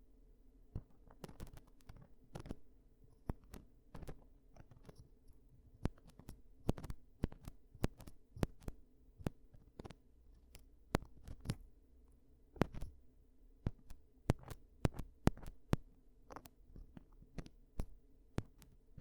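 Close-up ASMR ear-cleaning sounds: irregular crackling clicks and scratches, several a second and uneven in loudness, over a faint steady hum.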